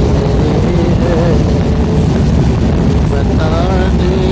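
A loud, steady, low rumble with people's voices talking over it, most clearly near the end.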